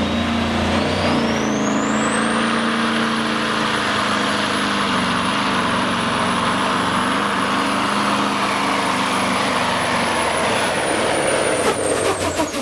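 Diesel semi truck engine working hard under load in a truck pull, with a high turbocharger whistle that rises over the first two seconds and then holds. Near the end the whistle drops and a quick run of sharp cracks follows.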